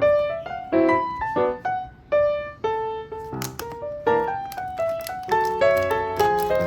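Background piano music: a melody of separate notes and chords, each note striking and then fading, a few notes a second.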